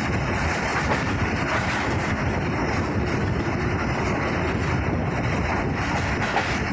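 Passenger train (102 Down Subak Raftar) running at speed, heard from aboard a coach: a steady rumble of wheels on rails mixed with rushing air.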